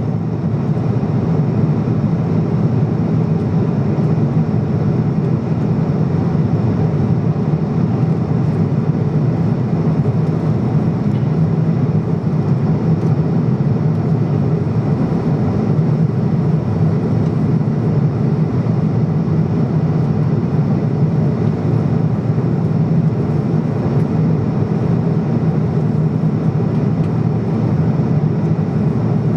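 Steady, loud cabin noise of a Boeing 777-200 with its twin engines at high thrust: engine noise and airflow heard inside the passenger cabin over the wing, with no change in level.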